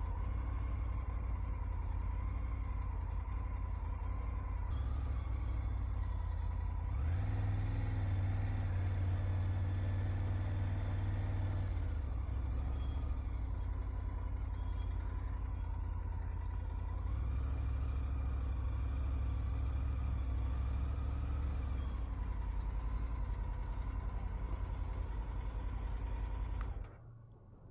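Motorcycle engine and road noise while riding, the engine getting louder twice as it picks up speed and easing off in between. It cuts off suddenly near the end.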